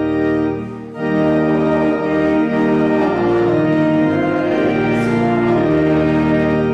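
Organ playing held chords of music, with a short break a little under a second in before the next chord sounds.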